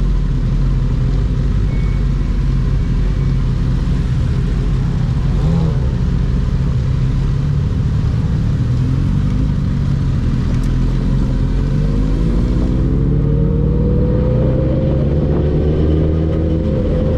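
Sport motorcycles running at highway speed, with steady engine and wind noise. From about twelve seconds in, an engine note climbs slowly as a bike accelerates.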